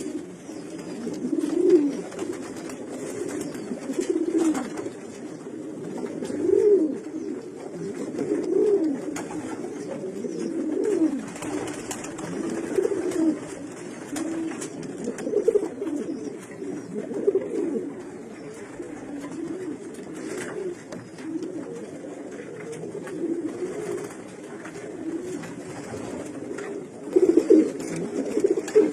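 Pigeons cooing, low rolling calls repeated every second or two, several birds overlapping.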